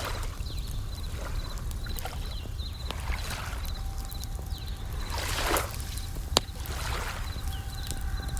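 Layered nature soundscape: bell crickets (suzumushi) chirping in short repeated trills, small waves washing in several times, and a campfire crackling with scattered pops, one sharp pop a little past six seconds in.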